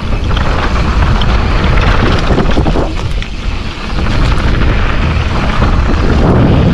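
Wind buffeting an action-camera microphone over the tyre noise and rattle of a mountain bike descending a dirt trail, briefly quieter a little past three seconds in.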